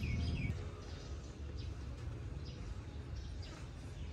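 Birds chirping outdoors: a run of quick repeated chirps ends about half a second in, followed by a few faint falling calls. A low background rumble runs underneath and is louder at the start.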